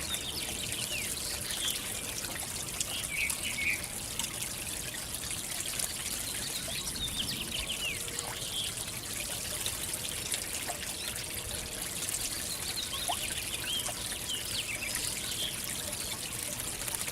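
Backyard fountain water trickling steadily, with short bird chirps in brief clusters near the start and again toward the end.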